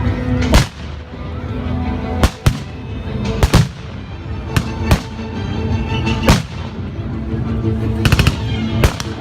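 Battle reenactment gunfire with blank rounds: single shots go off irregularly, about eight in all, with a short rapid burst of about four shots near the end, like a machine gun. Steady music or drone plays underneath.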